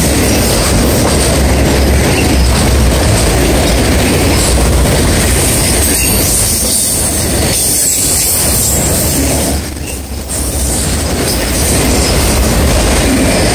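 CSX autorack freight cars rolling past close by: a steady, loud rumble of steel wheels on rail with a high hiss over it. The noise dips briefly about ten seconds in.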